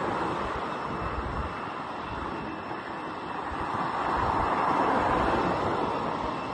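Jet airliner engines running, a broad roar that swells about four to five seconds in, with a faint steady high whine.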